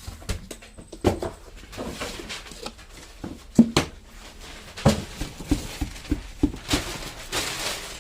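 Irregular knocks, taps and rustling of things being handled by hand, with a few sharper knocks and a short hissy rustle near the end.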